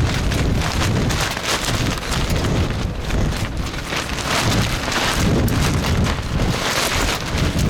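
Strong gusty wind buffeting the microphone, a continuous rumbling roar with a hiss over it that swells and eases from moment to moment.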